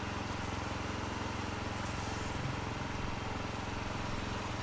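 A steady, low engine hum that holds unchanged throughout.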